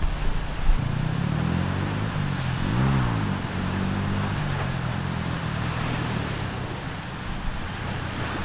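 A motor engine running steadily, its pitch rising and falling once about three seconds in.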